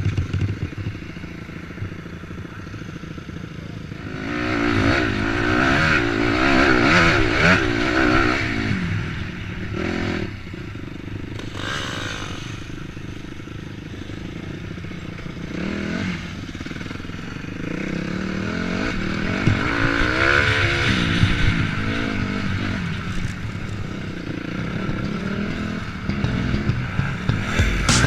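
250 cc dirt bike engine revving up and down as the bike is ridden along an off-road trail, with louder throttle surges twice and some clatter from the rough ground.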